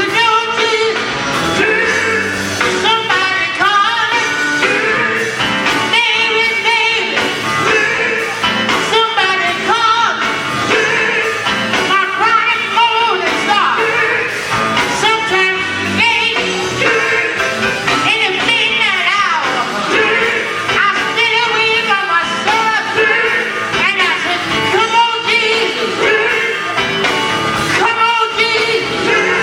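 Gospel vocal group singing with instrumental accompaniment, the voices sliding and bending through their lines.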